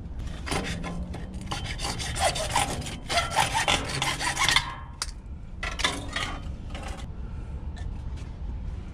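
Rubbing and scraping of PVC pipe being worked by hand, in two spells with a few squeaks in the first.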